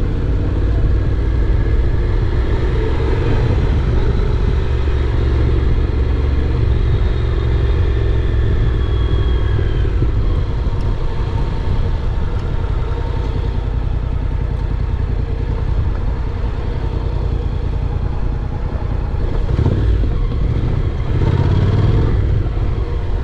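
Honda NC750X motorcycle's parallel-twin engine running steadily as the bike is ridden, with a brief rise in level near the end.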